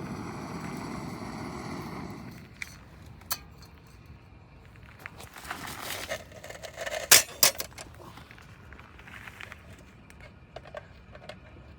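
Scattered clicks and small metallic clinks of things being handled, the loudest pair about seven seconds in, after a steady rushing noise that fades out about two seconds in.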